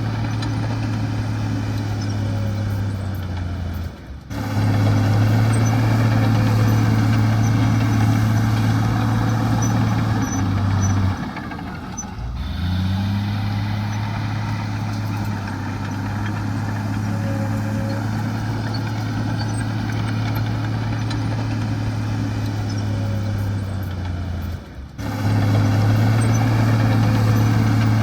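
Heavy diesel earthmoving machinery engine running with a steady low drone. The sound breaks off sharply and comes back at a slightly different pitch and loudness three times.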